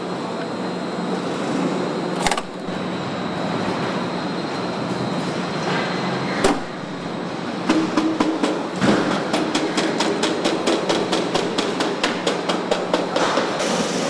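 Truck assembly plant noise: a steady machine hum with a few single knocks, then a run of quick, even metallic taps, about five a second, lasting several seconds.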